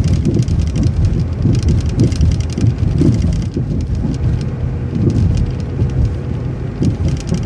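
City transit bus heard from inside the cabin: a loud low rumble of the bus running, with frequent light rattles and clicks over it.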